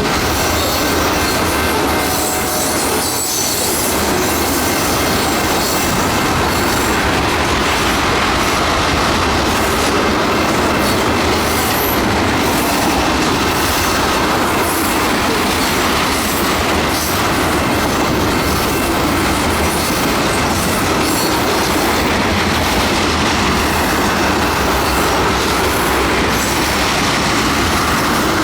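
Norfolk Southern ethanol train's tank cars rolling past, the steel wheels on the rails making a steady, loud running noise.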